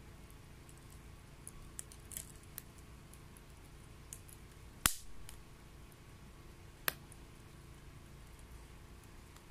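Wet wood burning in a homemade secondary-combustion stove, crackling faintly with scattered small ticks, and two sharp pops about five and seven seconds in.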